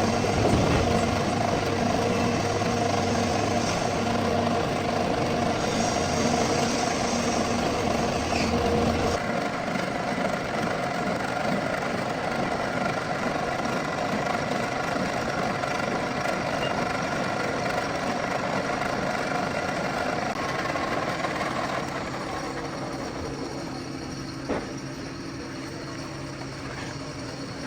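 Metal lathe running with a steady mechanical hum. Its deepest tones drop away about nine seconds in, it gets quieter near the end, and there is a single sharp knock shortly before the end.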